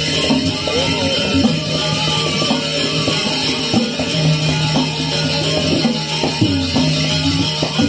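Balinese gamelan ensemble playing a steady passage with sustained ringing tones and a dense, jingling shimmer above them.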